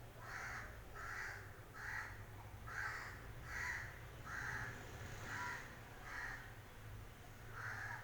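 A crow cawing over and over, about nine harsh caws roughly a second apart, over a low steady hum.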